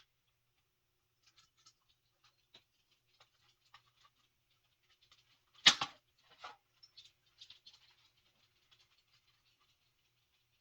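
Faint scattered clicks and light rustling of small electrical parts handled by hand during wiring, with one sharp knock a little past halfway and a smaller knock just after it.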